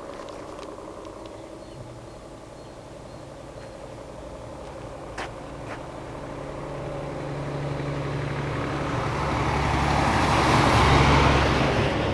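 Heavy fire engine driving up and past, its engine and tyre noise growing steadily louder to a peak near the end, then starting to fade.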